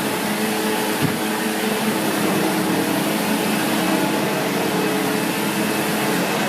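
SEBO X4 Extra upright vacuum cleaner running steadily, with a single knock about a second in.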